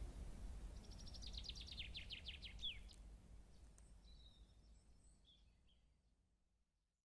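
A songbird singing a fast series of short notes that falls in pitch and ends in a downward flourish, followed by a few fainter chirps, over a low rumble; the whole sound fades out toward the end.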